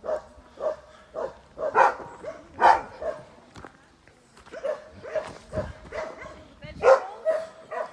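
A dog barking and whining in short, repeated calls, a few of them louder and sharper.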